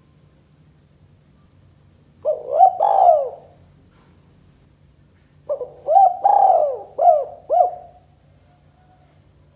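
Spotted dove cooing: a short phrase of a few coos about two seconds in, then a longer phrase of about five coos in the middle.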